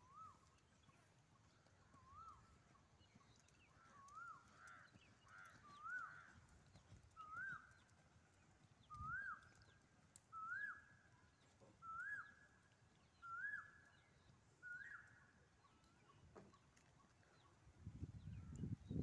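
A bird calling: a series of about eleven short whistled notes, each rising then falling, about one every second and a half, climbing slightly in pitch through the series. A low rumble starts near the end.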